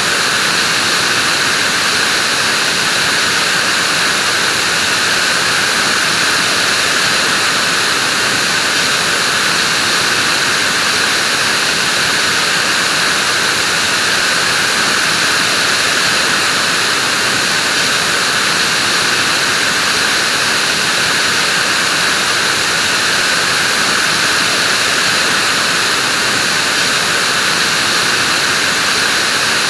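Vacuum cleaner running continuously: a steady, high-pitched rushing that holds the same level and pitch throughout.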